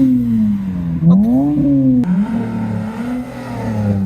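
Car engine revving hard as it drives off. The engine note falls, climbs steeply in a second rev about a second in, drops abruptly around two seconds, then settles into a steadier falling note.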